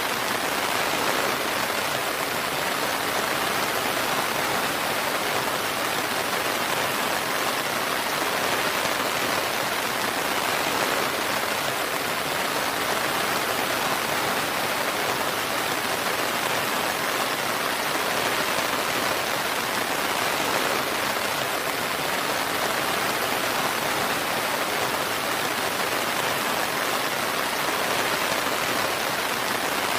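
Steady rainfall, a dense even hiss of rain falling on surfaces.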